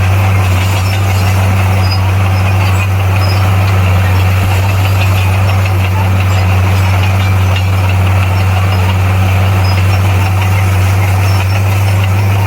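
Bulldozer's diesel engine running at a steady, unchanging speed, a loud low drone.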